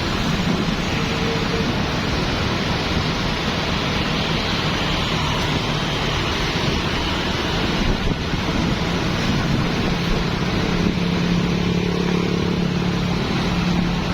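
Busy mixed street traffic of motorbikes, cars and tuk-tuks: engines running and tyre noise blending into a steady rumble, with one engine's low hum standing out in the second half.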